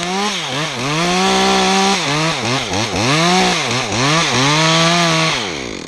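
Chainsaw cutting through a pine stem. The engine revs up and dips again and again, holds a steady high pitch for stretches, then drops off to idle near the end.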